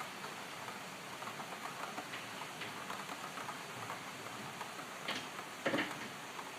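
Rain falling, with steady hiss and scattered drops ticking on a hard surface, a couple of louder drop impacts near the end.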